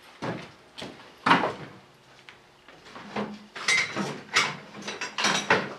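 Rummaging through tools for a 1/2-inch drive socket: metal sockets and tools clinking and clattering, with a few sharper clacks and brief metallic rings, busiest in the second half.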